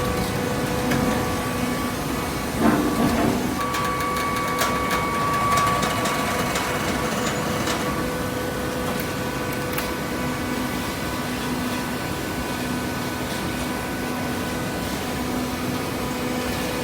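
Hydraulic waste-paper baler running: a steady machine hum with a few held tones and scattered clicks, and a short louder clatter about three seconds in.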